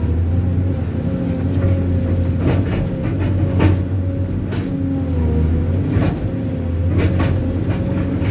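Heavy vehicle's diesel engine running steadily under load with a constant whine, on a rain-slicked slope it is struggling to climb. Several sharp clanks or knocks come through at intervals.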